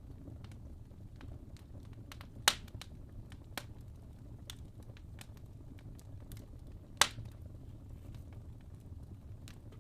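Wood fire in a fireplace: logs burning with a low steady rumble, scattered small crackles, and two loud pops about two and a half and seven seconds in.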